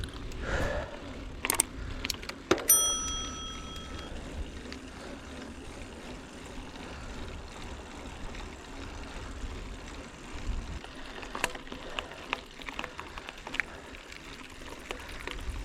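Mountain bike ridden over a rough forest track: a low rumble with scattered clicks and rattles. The handlebar bell rings once about three seconds in and rings on for about a second and a half.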